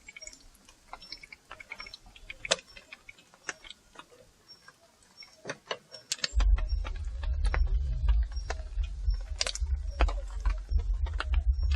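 Cooking utensils and small objects clicking and clinking in scattered light strikes. About six seconds in, a low rumble sets in beneath them and continues.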